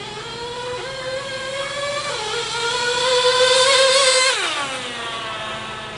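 Small GO 0.98cc two-stroke nitro engine of a 1/16-scale RC buggy running at high revs with a high-pitched whine, growing louder, then easing off about four seconds in with the pitch dropping quickly.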